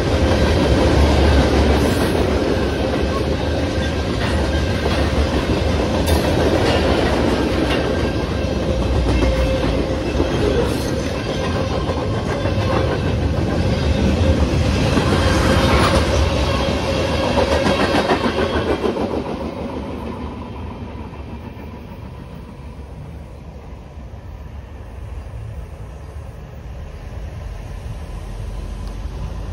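Freight train cars, tank cars and then flatcars, rolling through a grade crossing with a steady rumble and wheels clacking over the rail joints. The rumble fades after about 19 seconds as the last car clears. The crossing's electronic bells ring underneath.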